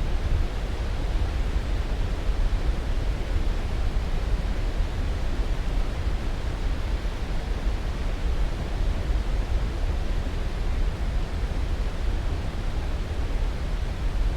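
Steady sleep-aid noise: an even, deep rushing hiss that is strongest in the low end. It does not change and has no distinct events.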